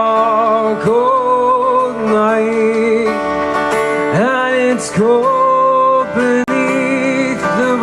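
A male singer holding long, slow sung notes with vibrato over strummed acoustic guitar, in a live solo folk performance.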